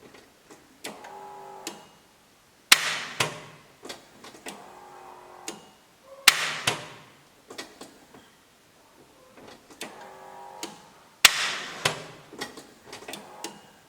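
Car starter solenoid clicking as the key is turned, three sharp clicks a few seconds apart with fainter clicks and a faint hum between them. The starter motor is not spinning and the engine is not turning over, the sign of too little current reaching the starter through its supply cable.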